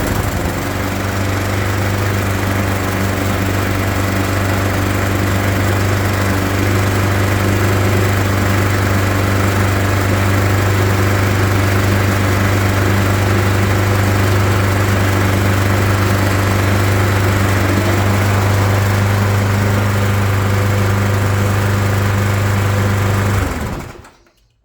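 Briggs and Stratton single-cylinder engine on a Mountfield HP470 rotary lawnmower running steadily and smooth just after starting, with no hunting now that the carburettor gasket has been replaced. It shuts off near the end.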